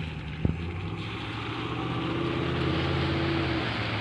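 Car engine running with tyres hissing on a rain-wet road, the hiss swelling through the middle; the low engine hum drops away near the end.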